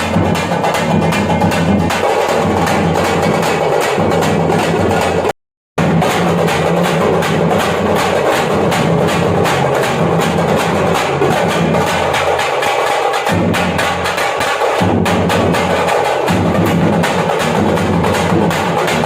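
Thappattam (parai) frame drums played together in a fast, dense, steady rhythm. The sound cuts out completely for about half a second about five seconds in, then the drumming carries on.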